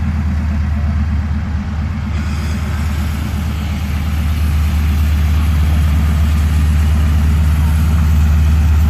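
Aircraft piston engine running with a steady, low, pulsing drone. It grows gradually louder from about halfway through.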